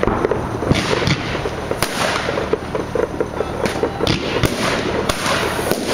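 Fireworks display: a dense run of bangs and crackling, several reports a second without a break.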